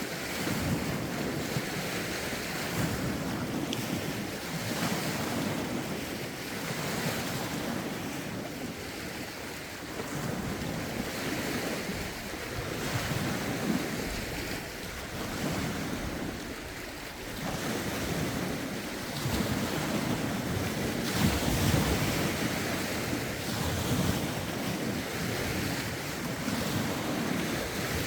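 Lake waves breaking and washing ashore in rough wind, swelling and easing every few seconds, with wind buffeting the microphone.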